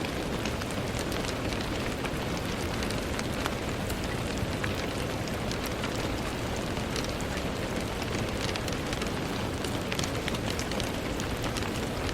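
Steady rain pattering on a window: a dense, even hiss of rainfall with many small, scattered drop ticks.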